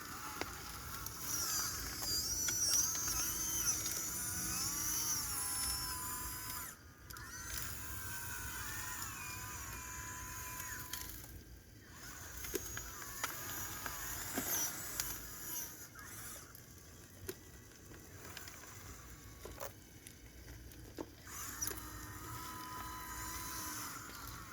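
Small electric motors whining in short runs, their pitch rising and falling as they speed up and slow down, with brief pauses between runs.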